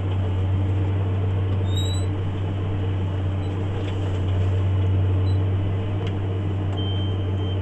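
JCB Fastrac 8250 tractor's diesel engine running steadily under load, heard from inside the cab, as it pulls a plough through heavy ground.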